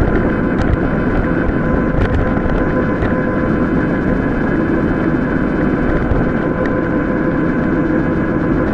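Steady wind rush and rolling noise of a mountain bike on an off-road ride, with a faint steady hum and a few light clicks.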